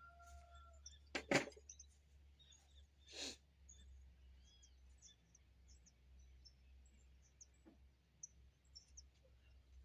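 Faint, scattered small-bird chirps, with one sharp knock a little over a second in and a softer, noisier thud about three seconds in.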